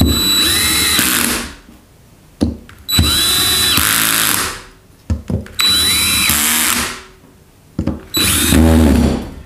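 Power drill-driver running in the cover bolts of an LPG reducer, four short bursts, each a motor whine that rises and then bogs as the bolt seats.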